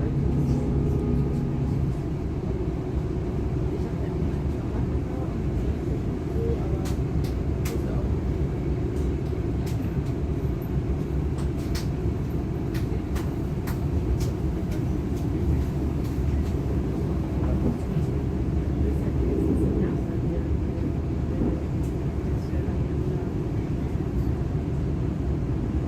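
Inside a DB Class 425 electric multiple unit running along the line: a steady rumble of the wheels on the rails. A humming tone from the train's drive fades out about two seconds in, and scattered sharp ticks come through the middle.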